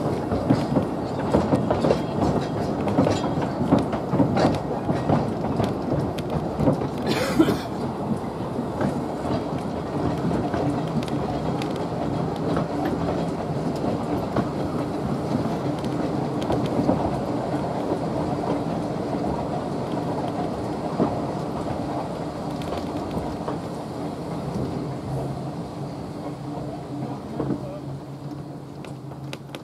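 Talyllyn Railway narrow-gauge train running, a steady rumble with many quick clicks and knocks of the wheels on the track. There is a short hiss about seven seconds in, and the sound slowly grows quieter over the last several seconds.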